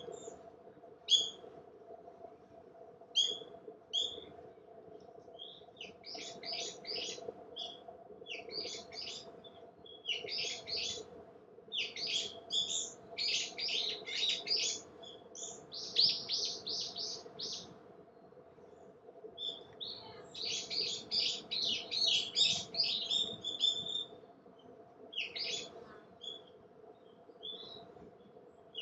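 Small songbirds chirping and twittering: single high chirps at first, then quick runs of repeated notes in several phrases, over a faint steady hum.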